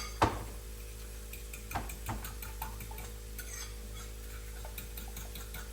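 Kitchen utensils and dishes being handled: a sharp knock about a quarter second in, two more around two seconds in, and light clicks and ticks in between.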